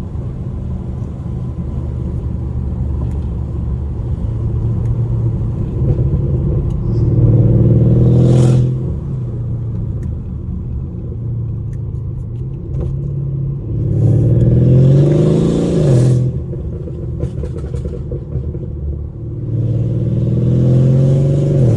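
Mercedes-Benz W218 CLS550's twin-turbo V8 with aftermarket downpipes, running under load with three hard pulls. On each pull the exhaust note rises in pitch, then drops at a gear shift.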